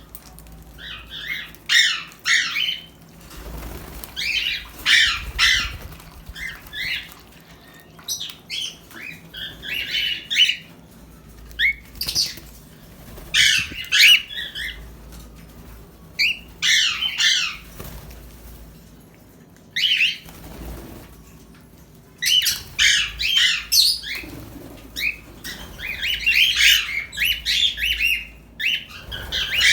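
Small pet parrots chirping and squawking in rapid clusters of a second or two, broken by short pauses.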